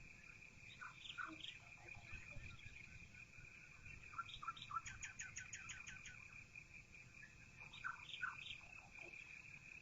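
Faint birdsong heard through a half-open window: scattered chirps, with a quick run of about eight short notes near the middle, over a steady high tone and a low rumble.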